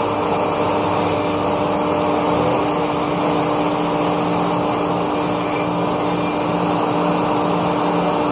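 Laguna SmartShop II CNC router's spindle running steadily as it cuts foam: a constant machine hum with a few steady tones over a rushing noise.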